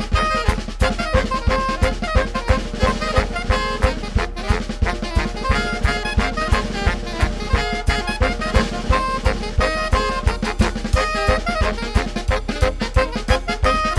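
Saxophone ensemble playing a melody over a drum kit with a steady, fast beat.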